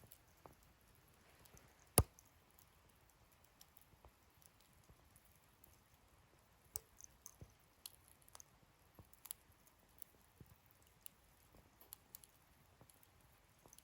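Wood fire in a fire-pit stand crackling quietly with scattered small pops, and one sharp pop about two seconds in.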